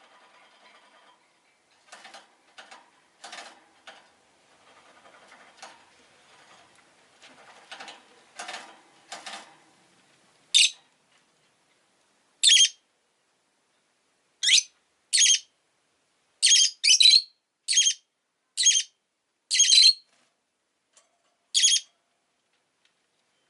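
Rosy-faced lovebird giving about ten loud, sharp, high-pitched calls one to two seconds apart, starting about ten seconds in. Before them there are quieter, irregular scratchy sounds.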